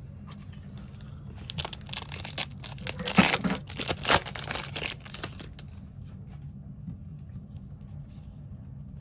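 Foil wrapper of a Bowman baseball card pack being torn open by hand and crinkled, a dense crackling for about four seconds that is loudest in the middle. A steady low hum sits underneath.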